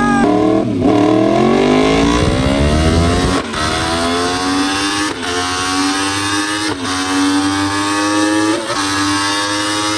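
A sportbike engine pulling hard under full throttle, its pitch climbing steadily, with a brief break roughly every second and a half as it changes up through the gears.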